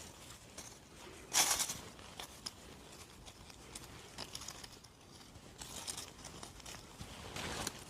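Rustling and crunching of forest-floor litter (leaves, moss and twigs) being handled and stepped on while mushrooms are picked, with a louder rustle about a second and a half in and small snaps and ticks between.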